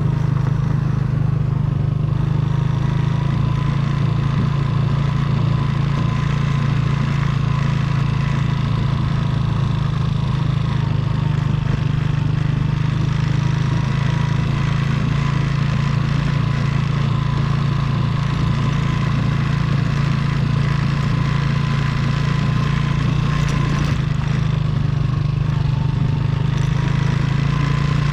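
Motorcycle engine running at a steady speed, with its pitch rising slightly near the end.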